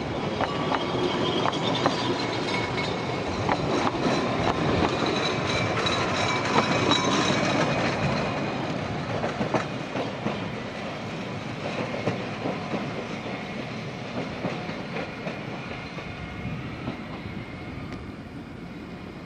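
Ffestiniog Railway narrow-gauge passenger carriages rolling out of the station, wheels clicking over the rail joints with a thin high squeal now and then. The sound fades steadily as the train moves away.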